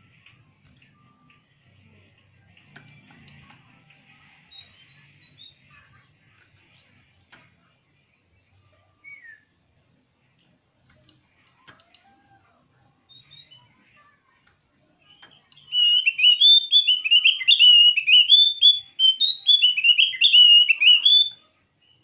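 Javan grey-throated white-eye (opior jawa) singing a loud, rapid run of chirping notes for about six seconds, starting about three-quarters of the way through: its call to provoke a rival into singing. Before it, only a few faint chirps and soft clicks.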